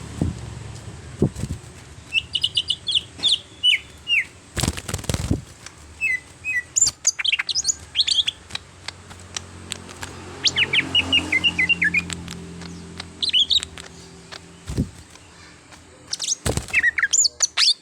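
A cucak hijau (green leafbird) singing in quick bursts of high chirps and trills, broken by short pauses. A few short loud knocks sound among the phrases.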